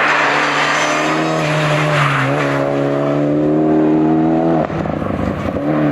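Hill-climb race car's engine pulling hard under load, its pitch holding high and rising a little, then cutting off sharply about four and a half seconds in and picking up again just before the end.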